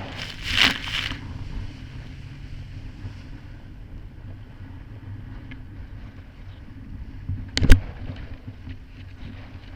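Kawasaki Ultra 300X jet ski engine running steadily over choppy water, with wind noise on the microphone. There is a brief rush of noise just after the start and a single loud sharp thump near the end.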